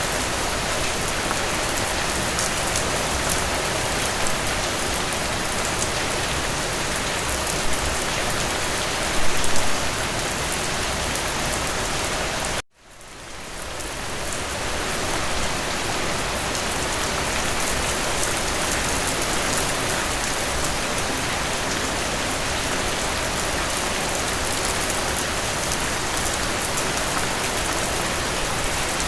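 Steady rain falling, with a few louder spatters about eight to ten seconds in. About halfway through, the sound cuts out abruptly and fades back up over a couple of seconds.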